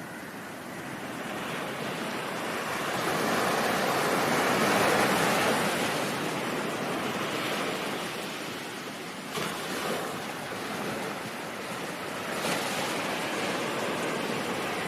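Ocean waves washing on a shore: a surge of surf builds to a peak about five seconds in and ebbs away, then two more waves break suddenly near the end.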